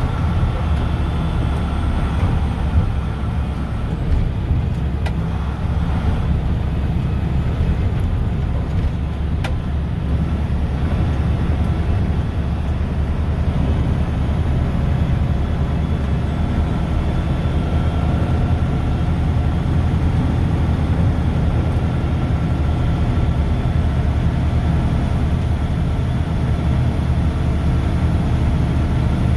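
Steady low drone of a Mack snowplow truck's diesel engine and road noise, heard from inside the cab while driving.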